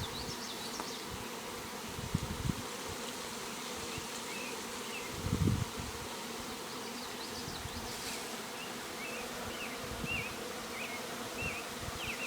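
A swarm of honeybees humming steadily as the bees fan at the entrance and move into their new hive box, a sign they are accepting it as a home. A few faint high chirps sound through the middle and near the end, with a couple of soft low bumps.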